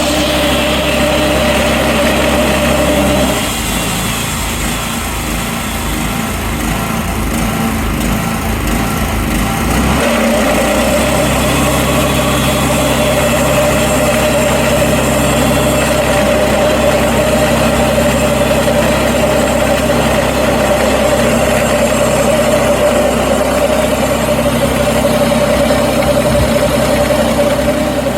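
Portable sawmill's engine running steadily. Its note goes rougher and a little quieter for several seconds about three seconds in, then settles back to an even drone.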